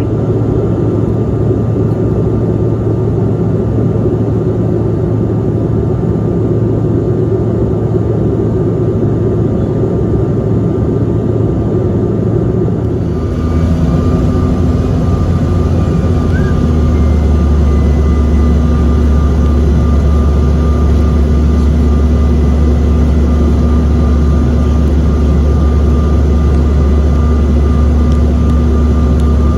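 Airliner's engines and airflow droning steadily. About 13 seconds in the sound changes: a deeper steady hum grows stronger and a thin, high steady whine comes in, as the engine power setting changes.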